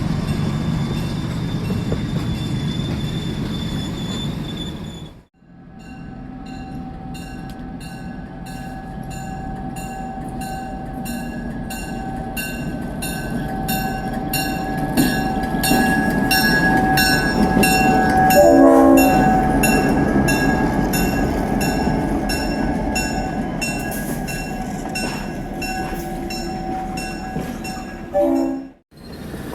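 Train running on the rails, its wheels clicking over the rail joints in a steady rhythm under a steady tone. The sound breaks off abruptly twice.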